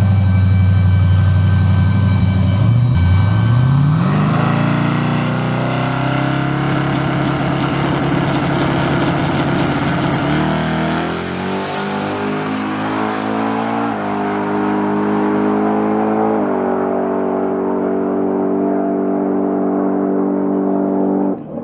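Turbocharged race truck launching and accelerating hard, its engine pitch climbing steeply and then stepping up through several gear changes. The sharp top end of the sound fades as it goes.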